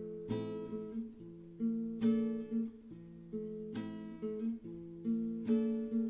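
Background music: acoustic guitar chords strummed about every second and a half, each left to ring out.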